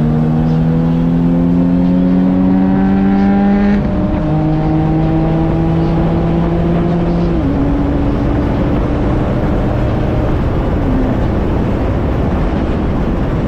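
Boxer engine of a car accelerating hard through the gears: the engine note climbs steadily, drops sharply at an upshift about four seconds in, climbs again, and drops once more about halfway through. It then flattens out and is lost under a steady rush of road and wind noise.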